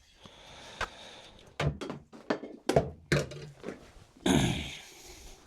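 Irregular wooden knocks and clunks at a woodworking bench as the auger bit is worked back out of a beech test piece and the piece is handled in the vise, with a louder rasping scrape about four seconds in.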